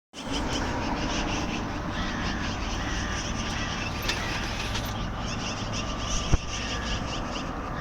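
Magpies and crows calling in a territorial squabble, many short harsh calls and caws overlapping, over a steady low rumble. A single sharp click about six seconds in.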